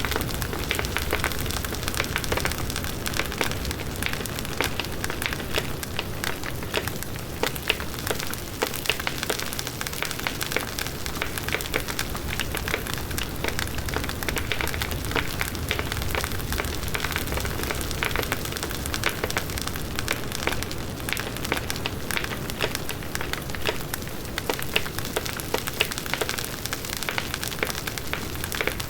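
Large wood bonfire burning steadily: dense, irregular crackling and popping of the burning wood over the continuous rushing of the flames.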